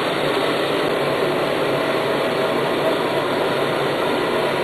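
Soft bonnet hair dryer running steadily on its hot, high setting: an even rush of blown air with a faint steady hum.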